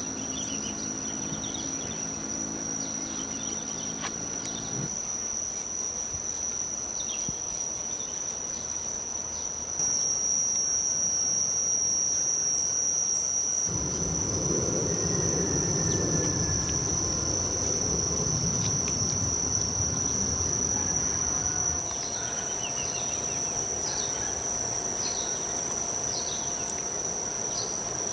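A high, unbroken insect trill, typical of crickets, with short descending bird chirps over it. In the middle a low, rough noise comes in for several seconds, then drops away.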